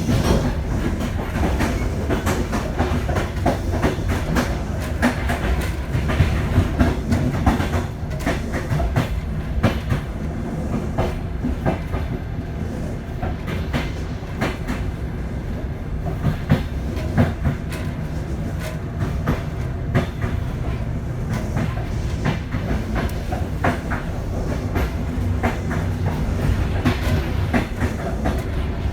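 Passenger train coaches running on the track, heard from inside the carriage: a steady low rumble of wheels on rails with a stream of clicks and clacks as the wheels pass over rail joints.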